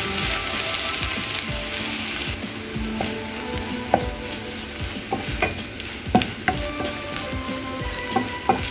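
Chopped taro stems sautéing in a nonstick pan, sizzling as they are stirred with a wooden spatula. The sizzle drops off about two seconds in, and the spatula taps and scrapes against the pan several times after that.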